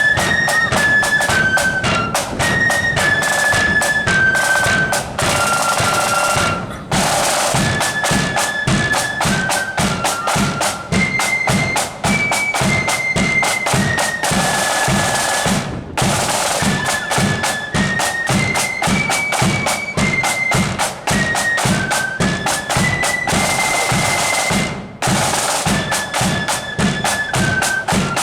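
Marching flute band playing a tune: a high melody on flutes over a steady beat of side and bass drums, about two beats a second, with short breaks at the ends of phrases.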